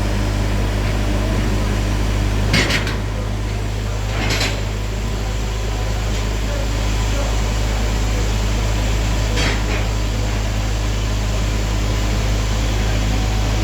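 BLKV_SP-0055 hydraulic impact hammer delivering three sharp metallic blows while knocking out a blast-furnace cooler: the first, loudest, about two and a half seconds in, the next about two seconds later, the last some five seconds after that. A steady low machine hum from the hydraulic supply runs underneath.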